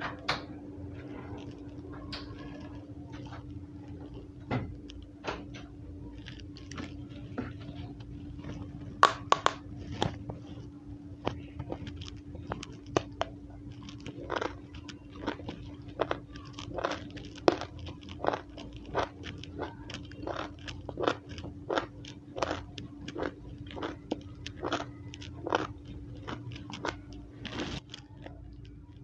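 Close-up biting and chewing of a raw small round purple brinjal (eggplant): crisp crunches, sparse at first, then about two a second from roughly halfway through.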